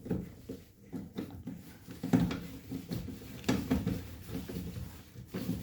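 Irregular knocks and handling clatter as parts of the furnace motor assembly are worked on by hand, with the strongest knocks about two seconds in and about three and a half seconds in.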